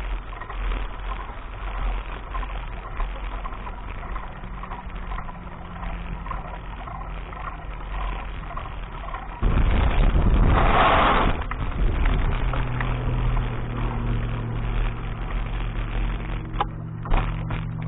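A low rumble with faint ticking, then a loud rushing noise for about two seconds, after which a vehicle engine hums steadily.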